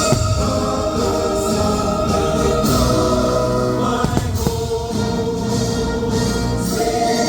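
Fireworks-show soundtrack over outdoor loudspeakers: a choir singing long, held notes with accompaniment.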